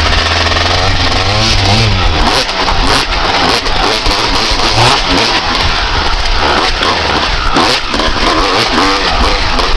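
Honda CR250R's single-cylinder two-stroke engine, loud, revving up and down again and again as the motocross bike is ridden, its pitch climbing and dropping every second or two.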